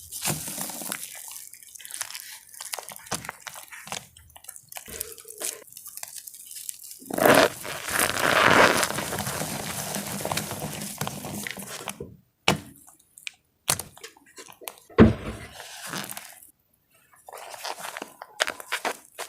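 Wet gym chalk crushed by hand: irregular crumbling and crunching with squishy, dripping textures, a long dense crush in the middle and a few sharp snaps near the end.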